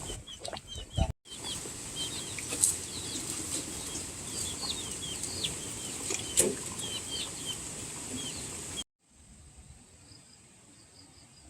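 Poultry, likely chicks, peeping over and over in short high calls over a rustling background, with a couple of sharp knocks. The sound cuts off abruptly about nine seconds in, leaving a faint hiss.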